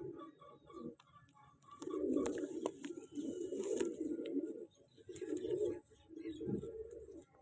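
Domestic pigeons cooing in several low, rolling bouts of about a second each, with a few faint clicks between them.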